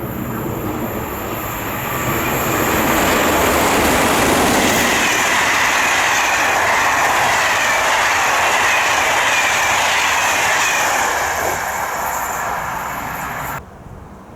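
A train running through the station on the rails: a loud, steady rush of wheels and track noise that builds over the first couple of seconds, holds, and then cuts off suddenly near the end.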